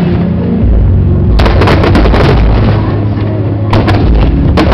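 Aerial fireworks bursting: deep booms under dense crackling, with a thick cluster of sharp cracks about a second and a half in and another near the end.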